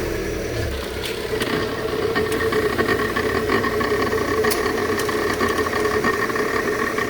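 Volkswagen Gol G5 engine idling, with a few sharp clicks scattered over it: the front-wheel suspension clicking as the steering is turned.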